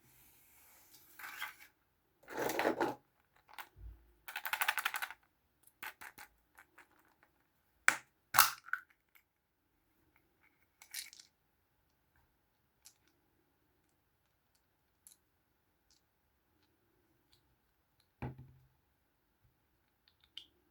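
Small plastic Kinder Surprise toys being handled: a few short scraping and rustling sounds, two sharp clicks about eight seconds in, and scattered light ticks.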